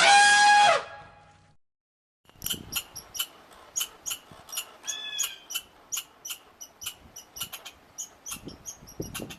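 A short, loud animal call that falls in pitch, then after a pause a long run of quick, high squeaks from a small animal, several a second.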